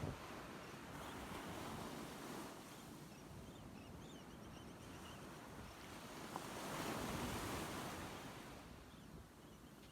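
Gentle ocean surf washing up on the beach, with a wave swelling louder about seven seconds in, and light wind. A few faint high chirps come through the surf.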